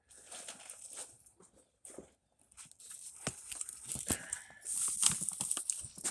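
Scattered light clicks, knocks and rustling from handling and moving about, sparse at first and busier after about three seconds.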